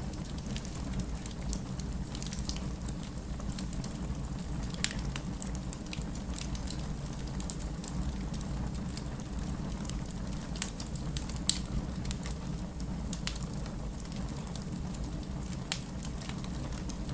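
Wood fire burning in a fireplace: a steady low rumble of flames with frequent irregular crackles and pops from the burning logs, one sharper pop about eleven seconds in.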